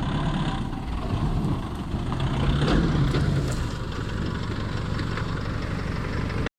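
Four-wheel-drive vehicle's engine running steadily with a low rumble, with light clicks and rattles over it; it cuts off suddenly near the end.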